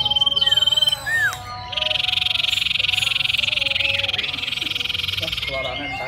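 Common iora singing: a high, rapidly beaded trill for about a second, a short curved whistle, then a loud, dense buzzing trill held for about four seconds.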